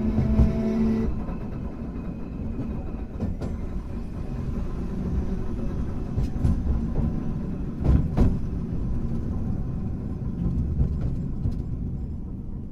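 Hankai Tramway 351 tram running: a rising motor and gear whine cuts off about a second in, leaving the rumble of wheels on rail with a few sharp clacks, two close together past the middle.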